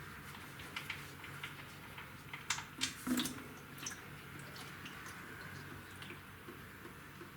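Scattered small drips and light clicks over a faint steady hum, with a few louder sharp clicks about two and a half to three seconds in.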